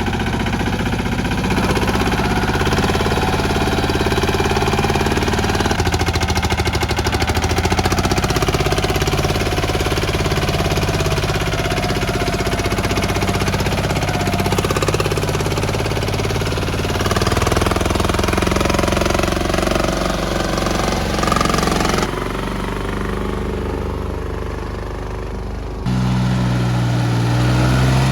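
Small mini-tractor engine running with a fast, even clatter, its sound changing abruptly twice in the latter part, the second time to a stronger low steady hum.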